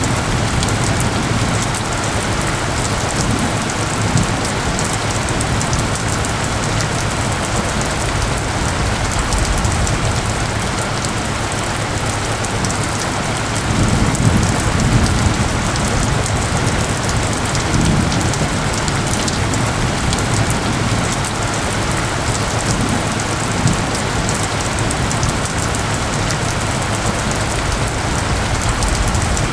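Steady, dense rain pattering on surfaces. A low rumble rises briefly about halfway through.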